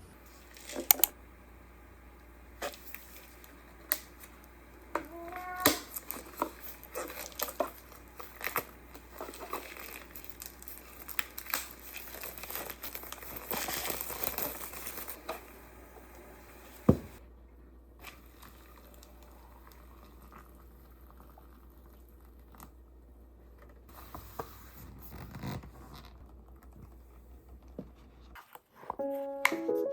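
Crinkling and rustling, as of plastic or paper being handled, with scattered sharp taps and clicks through the first half. It falls quieter after one sharp click about halfway through, and a few notes of music come in at the very end.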